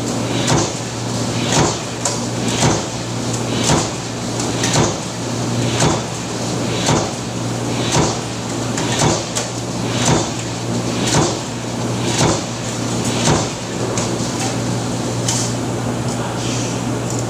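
Factory press machine stamping in a steady cycle, about one sharp clack a second, over a constant low machine hum. The strokes stop about 13 seconds in.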